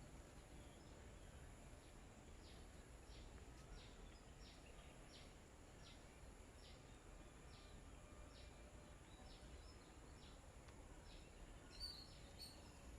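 Faint bird calls: a series of short, high notes repeated evenly about once every two-thirds of a second, then a brief chirp near the end, over a quiet steady hiss.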